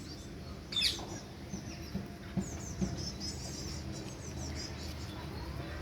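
Birds calling: one loud, sharp call about a second in, then many small high chirps twittering over a steady background.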